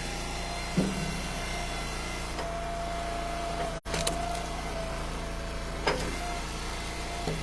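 Hydraulic wood splitter's engine running steadily, with a higher whine held for about three seconds in the middle and a few short knocks.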